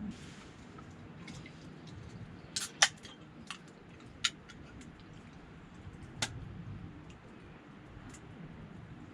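A handful of sharp, irregular clicks and ticks over a low steady background, the loudest a pair close together nearly three seconds in, with single ones about a second later and again past six seconds.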